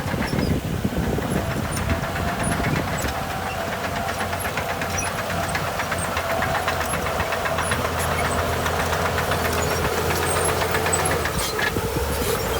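Heavy diesel engine of earthmoving machinery running steadily with a rapid, even firing rattle. A faint whine sinks a little in pitch in the second half.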